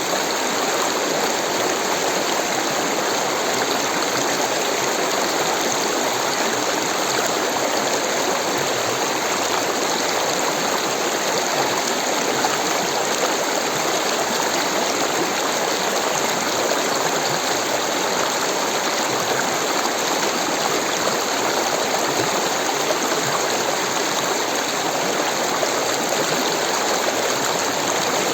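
Rushing water of a stream, a steady, unbroken rush with no separate splashes.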